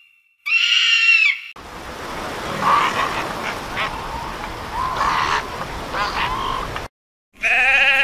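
A brief scream from a bird of prey, falling at its end, then a fur seal colony calling, many overlapping bleats and barks over a dense din for about five seconds. Near the end a sheep gives one wavering bleat.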